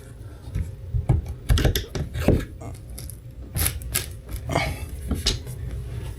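Irregular knocks, clicks and short scrapes of hand work on an ambulance's interior panel, chipping at glue and paint to uncover the screws that hold it, over a steady low hum.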